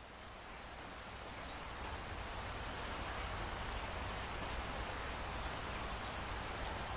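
Steady rain falling, an even hiss of drops with a low rumble underneath, fading in over the first two seconds or so and then holding level.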